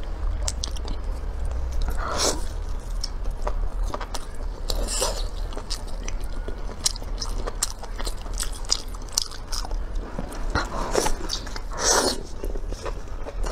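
A person biting and chewing food close to the microphone: many small sharp clicks with several louder crunching bursts, over a steady low hum.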